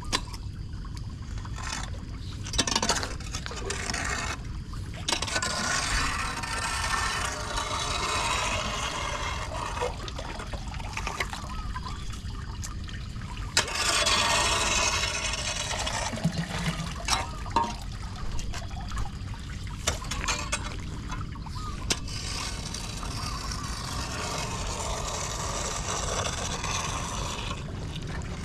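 Floodwater pouring and trickling down a street storm drain as it is unclogged, the rush swelling and easing, with a few sharp knocks.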